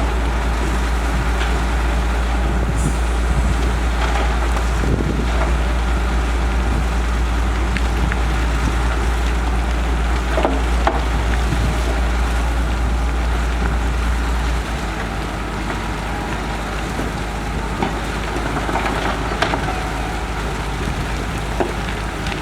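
Heavy diesel construction machinery running steadily, with a few scattered knocks over the engine noise. The deep low rumble drops off suddenly about two-thirds of the way through.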